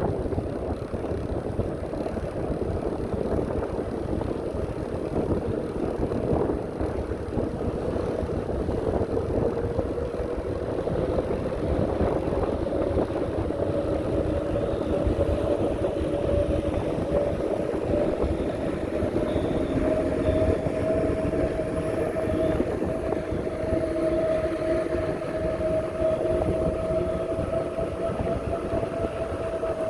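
Bicycle riding along a path: steady wind buffeting on the microphone and tyre rumble, with a steady whine that slowly rises in pitch.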